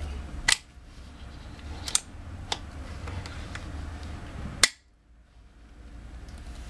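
Evanix Blizzard side-lever air rifle: a sharp shot about half a second in, two lighter clicks from the side lever being worked, then a second shot, after which the low background hum drops away.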